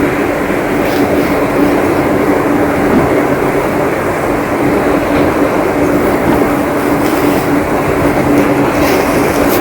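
Heavy rain falling steadily, a dense, even hiss, with a steady low hum running underneath.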